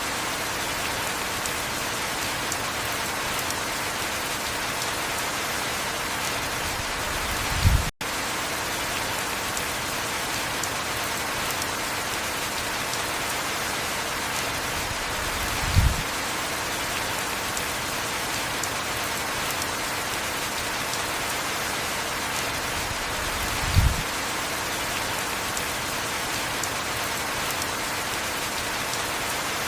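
Heavy rain falling steadily, an even hiss. A short low thump sounds three times, about eight seconds apart, and the sound cuts out for an instant just after the first.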